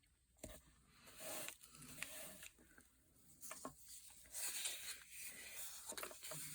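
Soft, irregular rustling and light tapping of paper and craft materials being handled, with a few small ticks.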